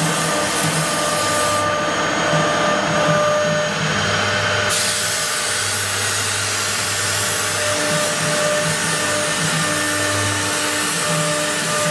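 Twin-spindle CNC wood router running: a steady spindle whine over a dense hiss, with lower hums starting and stopping as it works.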